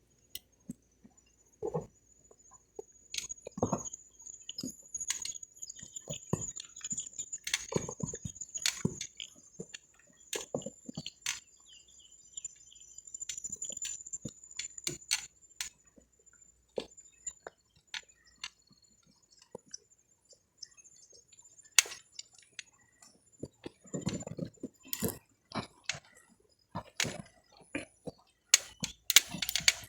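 Irregular crunching, snapping and crackling of dry leaves and twigs, typical of someone walking and pushing through undergrowth, over a steady high-pitched whine that fades out about two-thirds of the way through.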